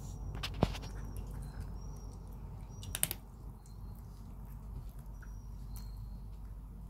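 Small birds chirping outside in short, high peeps every second or so, over a faint low hum. Two sharp clicks stand out, about half a second in and again around three seconds in.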